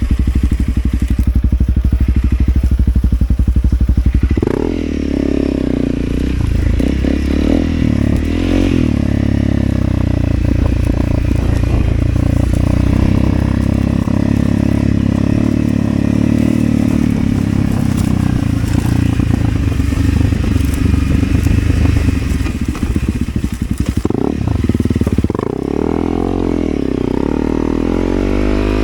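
Motorcycle engine running under way, a steady low drone whose pitch changes about four seconds in and wavers up and down again near the end as the revs change.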